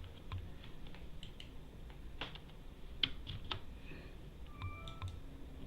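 Typing on a computer keyboard: scattered, irregular keystrokes, with a few sharper key presses around the middle.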